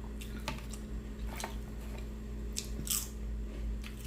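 Close-miked chewing of a bite of sandwich: irregular wet smacks and mouth clicks, a few a second, over a steady low hum.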